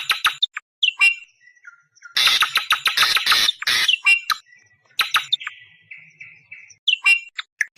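Awar-awar bird calling: harsh, rapid chattering rattles, the longest about two seconds in, broken up by short sharp down-slurred notes and a brief buzzy note.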